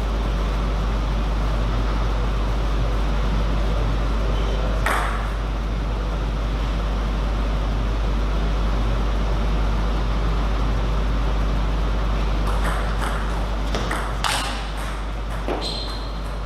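Table tennis ball hits, sharp clicks of the ball on table and bat: a single hit about five seconds in, then a short run of hits near the end. A steady low hum and hall noise run underneath.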